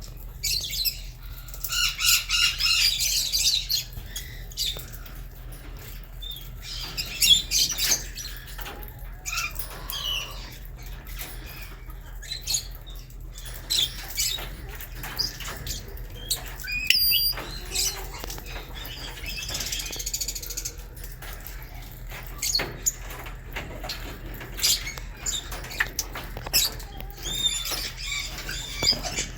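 A colony of lovebirds chirping and chattering in repeated bursts, with scattered sharp clicks and wing flaps, over a steady low hum.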